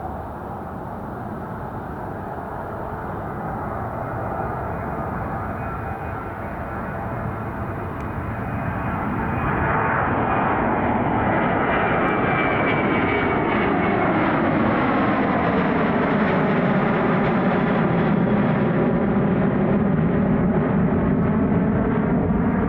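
Airliner's engines roaring, growing louder as the aircraft nears and passes close, with a sweeping tone that falls in pitch in the second half.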